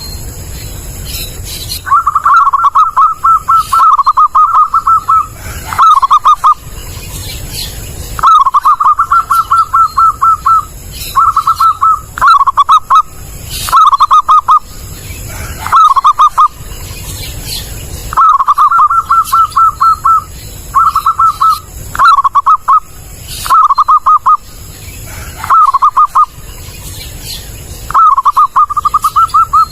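Zebra dove (perkutut) cooing loudly: phrase after phrase of quick, rippling notes at one pitch, some runs about a second long and others up to three, with short pauses between them.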